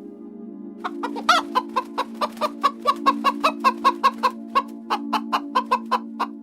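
Chicken clucking in a quick run of short clucks, about four a second, starting about a second in, over a steady background music drone.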